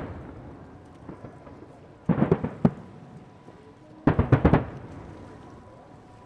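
Aerial fireworks shells bursting in two quick volleys of sharp bangs, one about two seconds in and one about four seconds in, each with a rumbling echo.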